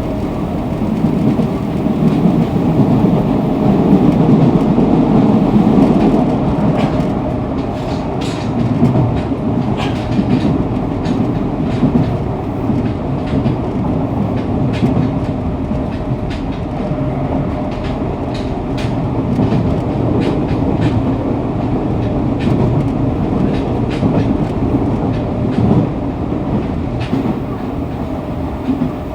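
Fukuoka City Subway 2000 series electric train car running at speed, heard from inside at floor level: a steady rumble of wheels and running gear, loudest in the first few seconds, with sharp clacks from wheels over rail joints through the middle.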